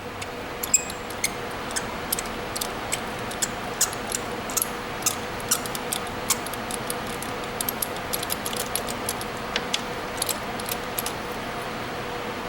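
Light metallic clicks and clinks of hand tools working on an engine's spark plugs, scattered irregularly throughout, over a faint steady hum.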